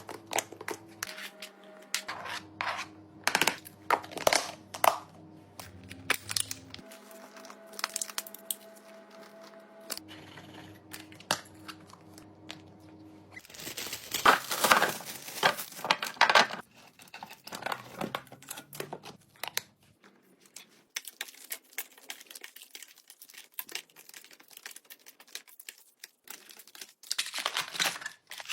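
Crisp crackling, crunching and tearing of some material being handled, a close-up texture sound, with many sharp clicks and a dense crunching burst about halfway through. Soft background music plays under the first half and stops about halfway.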